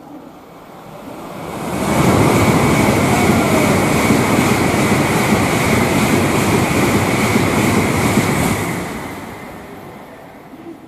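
Shinkansen bullet train passing through the station at high speed without stopping. A rushing roar builds over about a second, holds for about six seconds and fades away, with a steady high whine through it.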